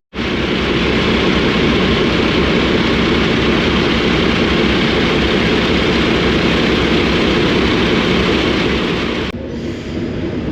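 Train running close by: a loud, steady mechanical noise. It cuts off abruptly about nine seconds in.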